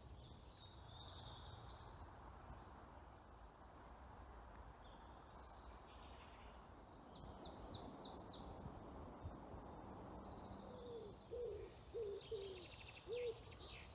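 Wild birds singing in woodland: high chirps and trills, a quick run of descending notes about halfway, and several short, lower-pitched notes near the end, over a faint steady hiss.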